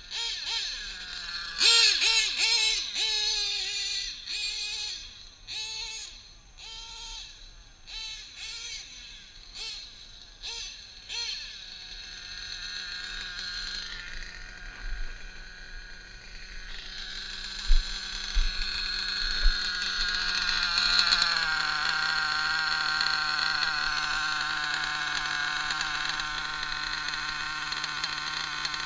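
Small nitro RC engine (drag-modified Novarossi .28) blipped again and again, its pitch falling back after each rev. It then settles into a steady idle that grows louder and holds, with a few sharp clicks partway through.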